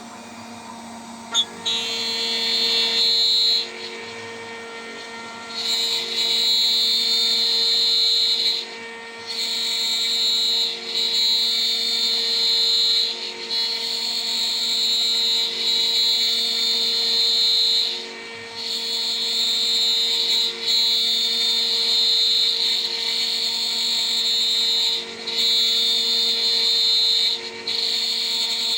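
CNC router spindle at about 14000 rpm with a 3 mm three-flute end mill taking repeated milling passes. A high-pitched cutting tone starts about a second and a half in and drops away briefly every few seconds between passes, over the spindle's steady hum.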